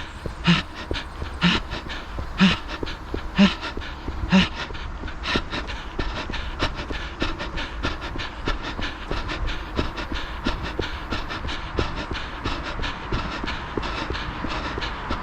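A runner breathing hard, one loud exhale about once a second for the first four seconds, over quick, even running footsteps on the path, about three a second, that continue throughout.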